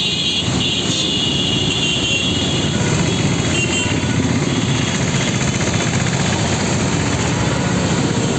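Steady road traffic noise, with a high whining tone in the first two seconds.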